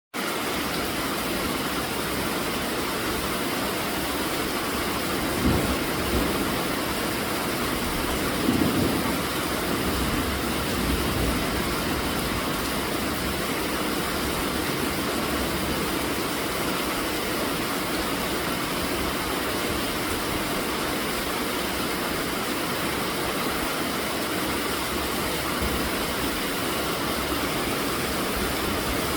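Steady rainfall, an even, unbroken hiss, with a few brief louder thuds between about five and eleven seconds in.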